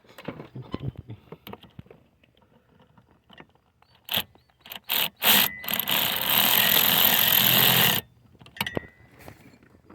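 Power tool run in a few short blips, then held for about two and a half seconds before cutting off suddenly, among scattered clicks and knocks of tools being handled.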